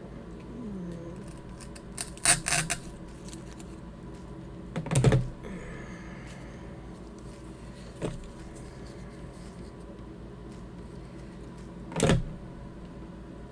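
Eucalyptus stems being handled and stripped of small branches: four brief crackling, clicking rustles spread through the stretch.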